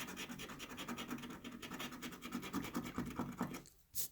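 Rapid back-and-forth scratching on a scratch-off lottery ticket, rubbing the coating off a row of numbers. It stops near the end, followed by a few short single strokes.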